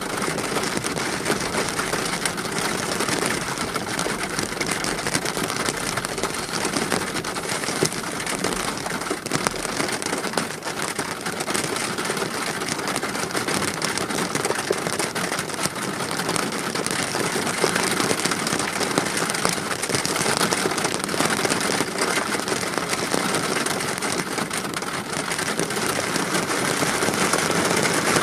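Steady rain falling and pattering on surfaces: a dense, even hiss made of many small drop ticks.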